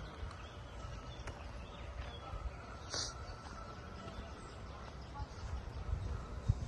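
Outdoor ambience: a steady low rumble of wind on the microphone, with a short high bird chirp about three seconds in and a few low thumps near the end.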